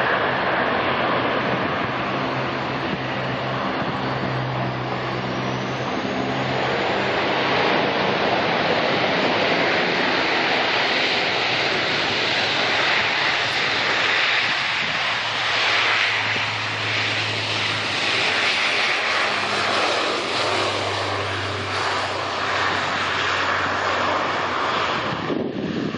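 Boeing 787-9 Dreamliner jet engines running loud and steady, with a whine that rises in pitch a few seconds in. The sound cuts off suddenly near the end.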